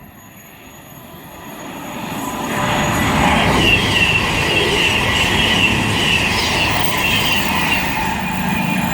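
A Virgin Super Voyager, a Class 221 diesel-electric multiple unit running as a double set, approaches at speed. Its rumble builds over the first few seconds and then stays loud. From about three and a half seconds in, a high, wavering squeal rides over it for several seconds.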